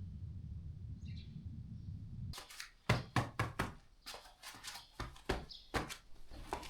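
A low steady rumble with one short high chirp about a second in. About two and a half seconds in, the rumble drops away and a string of irregular sharp knocks and clicks begins, roughly three or four a second.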